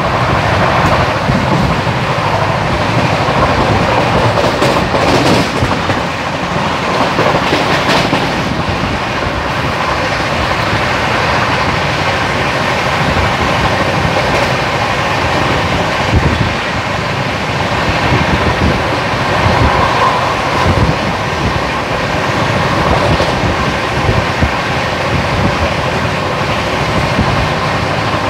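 Shan-e-Punjab Express passenger train running, heard from on board: a loud steady rumble and rush with the wheels clattering over the rail joints.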